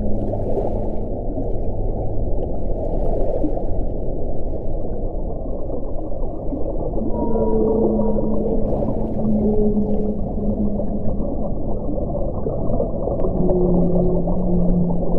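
Steady, dense low wind noise with low howling, moaning tones that swell and hold for a few seconds, in the middle and again near the end, and brief hissing gusts.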